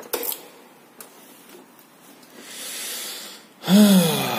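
A few light clicks, then a soft breath in, followed near the end by a short voiced sigh or hum that rises slightly and falls away.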